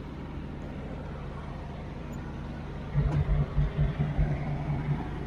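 Steady low hum of an idling vehicle engine, with a run of irregular low thuds for about two seconds near the end.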